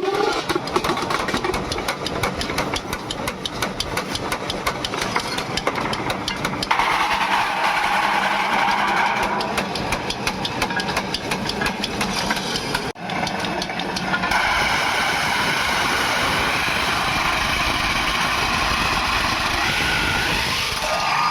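Metalworking machinery running, with a rapid, even clatter of metal strikes that stops and starts. After a sudden break it gives way to a steadier machine hum.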